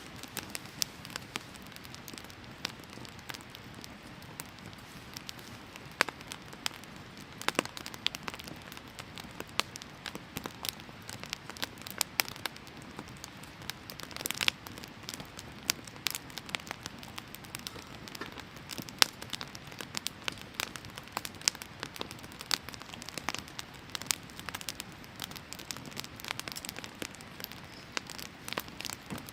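Firewood burning in a fire pit, crackling with frequent sharp, irregular pops over a steady hiss.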